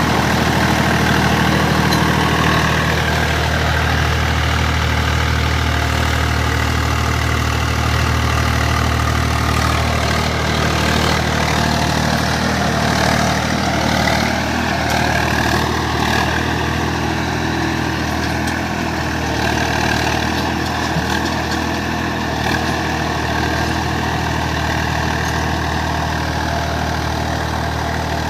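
Swaraj 855 FE tractor's diesel engine running steadily, working under the load of a seven-tine chisel plough. Its note sags and picks back up a few seconds in and again around the middle.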